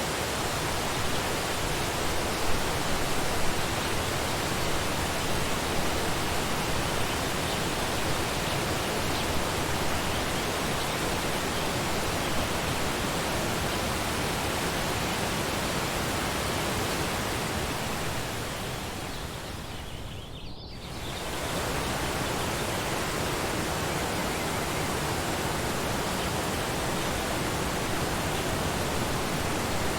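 Waterfall water rushing in a steady, even roar. About two-thirds of the way through, it briefly fades and dulls, then swells back to full.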